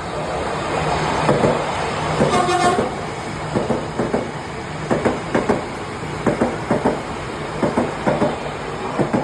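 A train running, with a brief horn toot about two and a half seconds in, then the rhythmic clacking of its wheels over the rail joints, the clacks coming in twos and threes.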